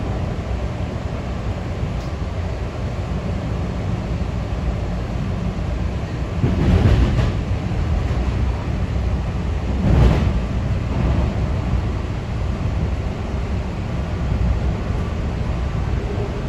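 PATCO rapid-transit train running along the bridge tracks, heard from inside the front car: a steady rumble of wheels on rail, swelling louder twice, about seven and ten seconds in.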